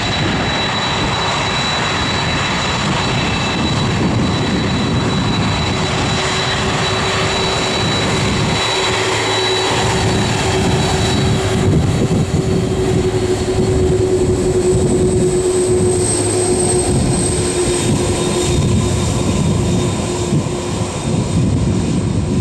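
Jet airliner's engines, a steady rush of noise with a high whine in the first half and a lower steady tone joining about six seconds in.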